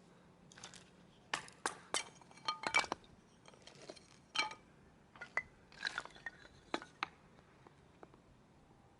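Cookware and utensils being handled: a run of sharp clinks and knocks, some ringing briefly, irregular, for most of the stretch and tailing off about seven seconds in.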